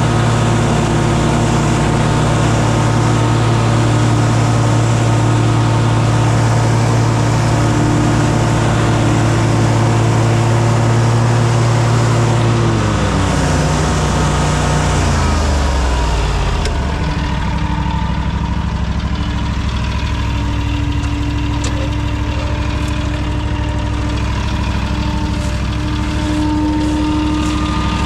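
An engine running steadily at speed, then throttled down about halfway through, its pitch falling over a few seconds to a lower, steady idle.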